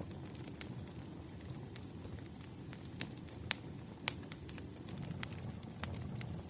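Burning firewood crackling: irregular sharp pops and snaps over a low steady rumble of the flames, with a couple of louder pops in the middle.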